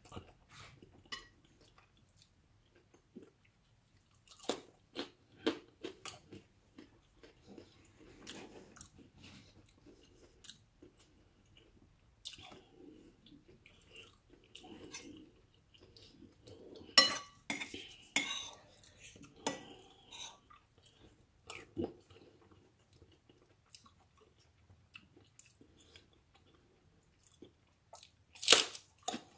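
Close-up chewing and crunching of food, with occasional clinks and scrapes of a metal spoon in a bowl. A burst of louder crunching comes about two-thirds of the way in, and a sharp bite into the crisp piece near the end.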